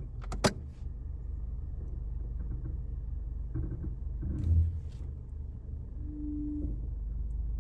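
A low steady rumble, with two sharp clicks about half a second in and a brief thump a little past four seconds in.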